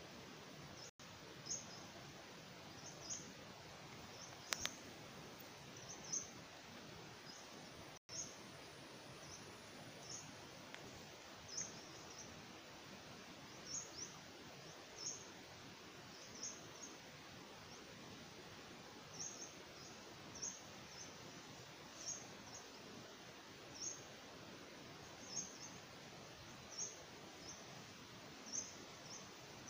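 A small bird calling over and over with short high chirps, often in pairs, about every second or two, over a steady faint hiss. One sharp click about four and a half seconds in.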